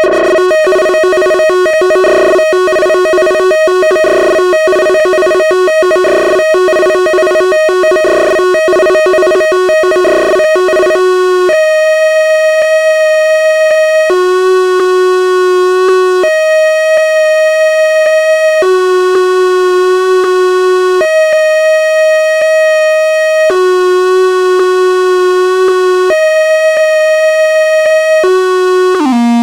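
Arturia Buchla Easel synthesizer tone switching between two pitches: a fast, stuttering two-note trill for about the first eleven seconds, then a slow two-note alternation with each note held about two and a half seconds, like a two-tone siren. Near the end the pitch dips down and comes back up.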